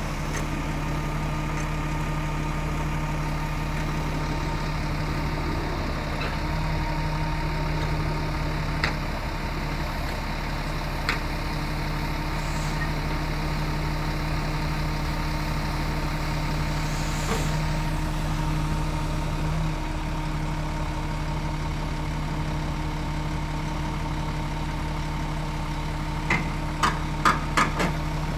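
Scania G450 truck's diesel engine idling steadily, with a quick run of sharp clicks near the end.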